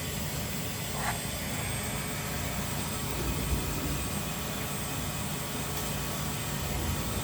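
Steady whooshing hum of an xTool F2 laser engraver's fans running as it cuts through black acrylic, with a faint high whine over it.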